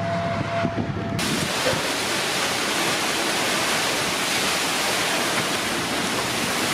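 Severe thunderstorm wind blasting across the microphone, a steady rush of wind noise that comes in abruptly about a second in.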